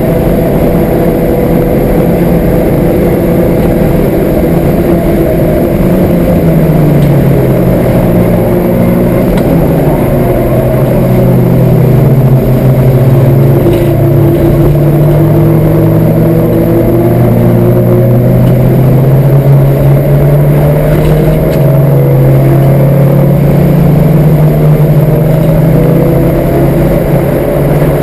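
Citroen Saxo race car's engine, heard from inside the cabin at full lap pace, its revs repeatedly climbing and dropping. It is a standard Saxo engine breathing through a Pipercross air filter and a four-branch exhaust manifold.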